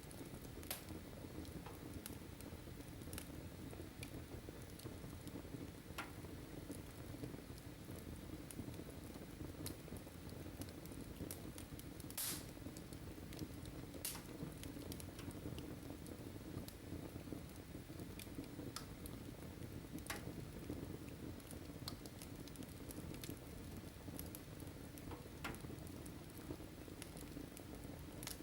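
Wood fire burning in a fireplace: a faint steady hiss with scattered sharp crackles and pops, one louder pop about twelve seconds in.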